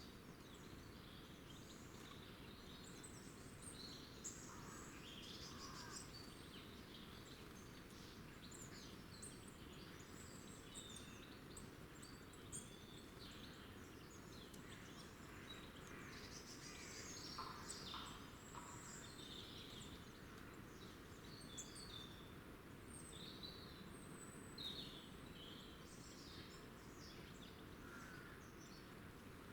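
Small wild birds chirping and calling, many short high calls scattered throughout, over a faint steady low background noise.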